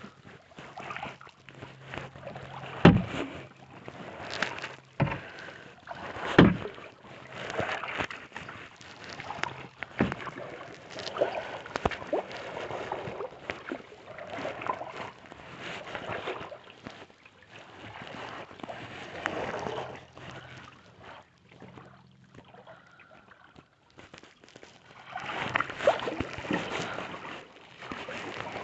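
Kayak paddle strokes, the blade dipping and pulling through lake water in a swell of splashing every second or two, with a few sharp knocks along the way.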